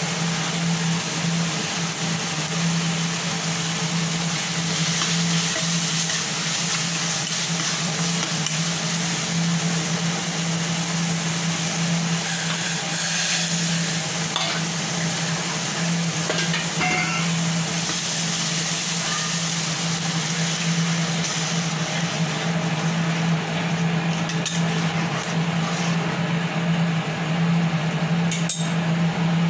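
Thick curry masala sizzling in a nonstick wok while it is stirred with a metal spatula, with scraping against the pan, over a steady low hum.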